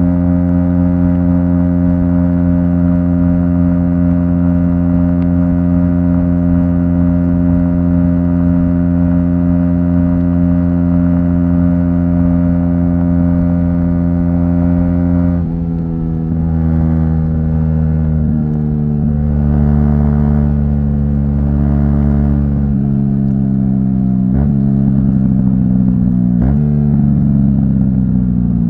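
Aprilia SX 125's single-cylinder four-stroke engine through an Arrow exhaust with the dB killer removed, riding at steady revs. About halfway through the throttle eases off, then the revs climb steadily under acceleration, with two quick upshifts near the end.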